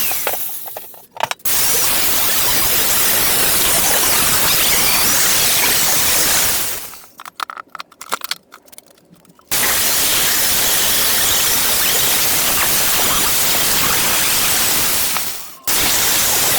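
Welding arc crackling and hissing on an exhaust downpipe, laid in three runs that break off briefly about a second in, for a couple of seconds around the middle, and again near the end.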